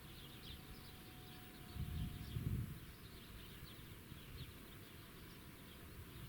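Faint outdoor ambience with many short bird chirps. A brief low rumble comes about two seconds in.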